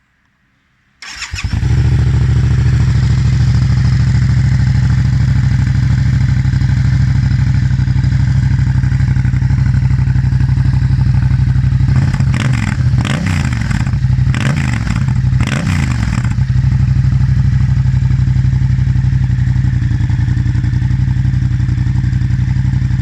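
A Yamaha MT-07's 689 cc parallel-twin engine starting about a second in and then idling steadily through its exhaust. About halfway through it takes several quick throttle blips before settling back to idle.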